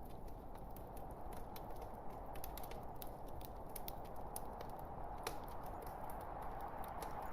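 Wood logs burning in a fireplace: a steady low hiss from the fire with many small, irregular crackles and pops, one sharper pop about five seconds in.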